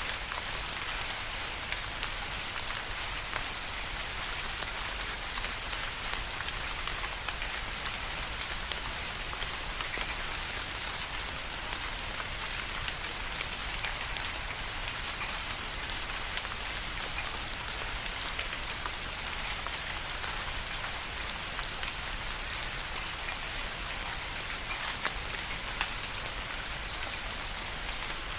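Steady rain falling, a dense hiss of drops with many small individual drop ticks scattered through it.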